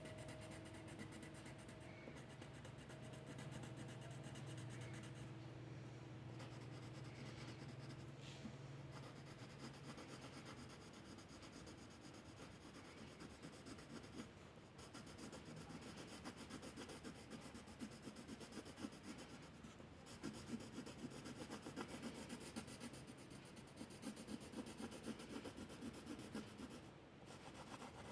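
A drawing tool scratching and rubbing on paper in quick repeated strokes, faint, over a low steady hum that fades out about ten seconds in.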